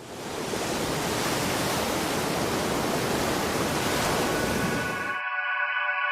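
Steady rush of ocean surf that fades in at the start and cuts off abruptly about five seconds in, giving way to sustained synthesizer chords.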